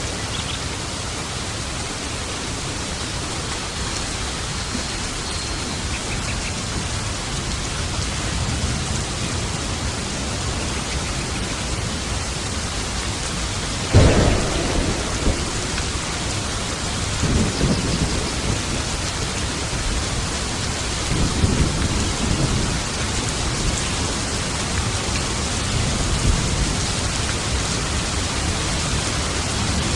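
Steady rain falling, with a sharp thunderclap about halfway through that rolls on into low rumbling thunder, followed by a few more rumbles.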